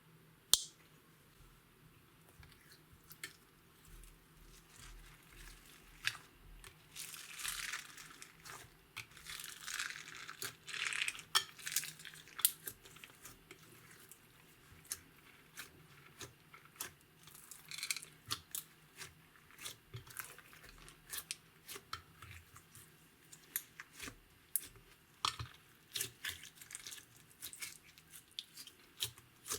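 Clear slime being worked and mixed with glitter and makeup, giving many sharp sticky clicks and crackles, busiest in the first half.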